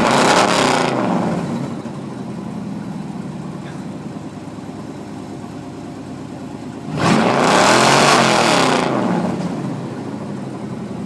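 Straight-piped GMC gasoline truck engine revving through open exhaust: a rev winding down to idle in the first two seconds, then a second rev about seven seconds in that climbs and falls back to idle.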